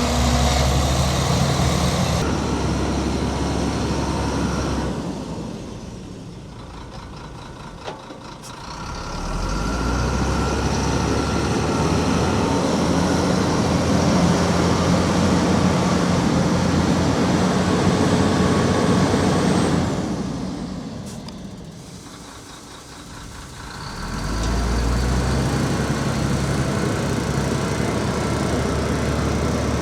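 Heavy diesel engine running loud and steady, dropping away twice for a few seconds and coming back up.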